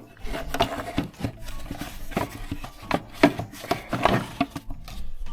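Air temperature sensor housing being worked loose from the engine's air intake and lifted off, with a run of irregular knocks, clicks and rubbing.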